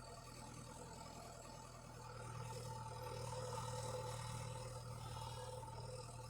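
Tractor engine running steadily, a constant low hum with a wavering higher drone, slightly louder around the middle.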